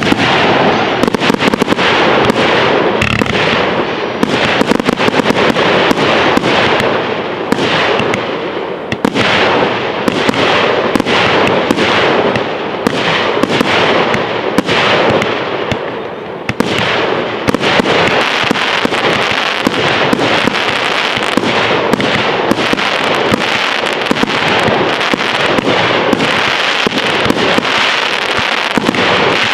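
Fireworks display: a dense, unbroken barrage of bangs and crackling. It thins briefly twice, then grows thicker with crackle over the second half.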